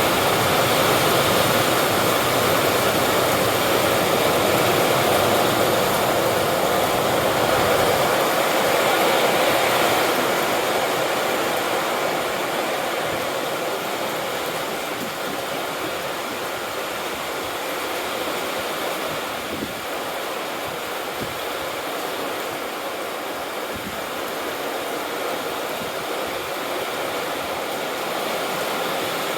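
Steady rushing noise of water, louder for about the first ten seconds and then a little softer.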